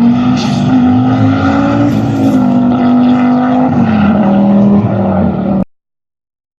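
Audi Quattro Group B rally car's turbocharged five-cylinder engine running hard, its note holding fairly steady with gentle rises and a dip about four seconds in. The sound cuts off suddenly about five and a half seconds in, leaving a second of silence.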